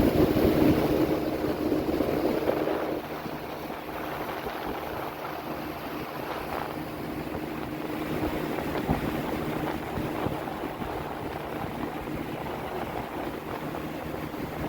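Small boat's outboard motor running with a steady hum, easing off to a lower level about three seconds in, with wind buffeting the microphone.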